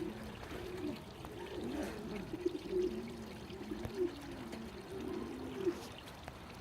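Several domestic pigeons cooing together in a loft: overlapping low, wavering coos.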